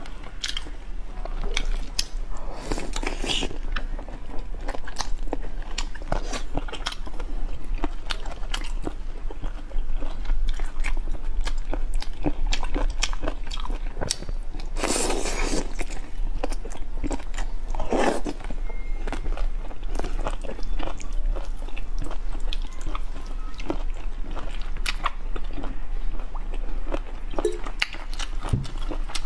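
Close-miked chewing and biting of spicy hotpot food, crunching crisp greens such as bok choy stems, with wet mouth clicks and a few longer, louder bursts.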